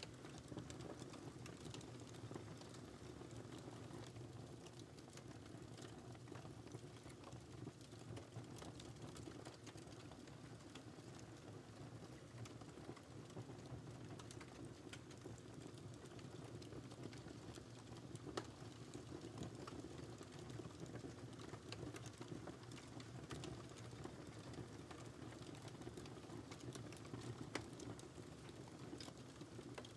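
Wood fire crackling: irregular small pops and snaps over a faint, steady low rush of burning flames.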